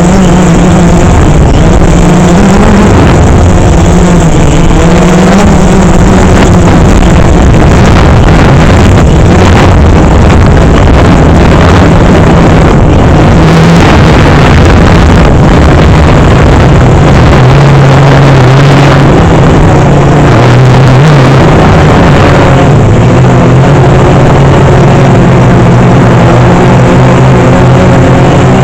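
DJI Phantom 3 quadcopter's motors and propellers humming loudly, the pitch shifting up and down as the drone manoeuvres.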